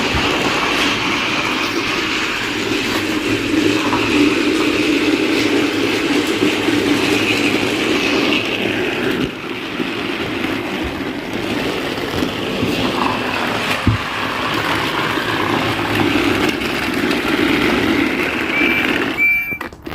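Battery-powered motorised Thomas and Friends toy train running on its track: a steady whir from its small electric motor and gears that cuts off suddenly near the end.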